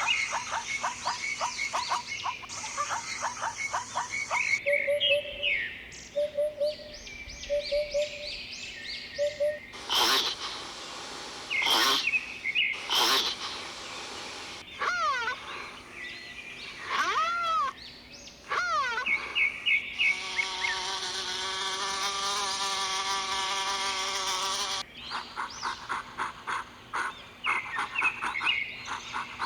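A run of different animal calls cut back to back, changing every few seconds: rapid chirping trills, short repeated notes, a few sharp loud clicks, arching calls, and one long steady call lasting about five seconds in the middle.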